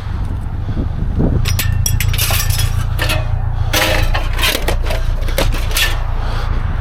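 A vehicle engine running steadily under a rapid, irregular series of clinks and clatters, like loose metal knocking about, from about a second in until near six seconds.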